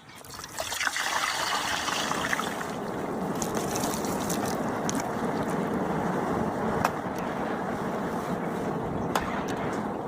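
Potato finger chips deep-frying in hot oil: a sizzle that swells up about a second in, then holds steady, with a couple of sharp pops later on.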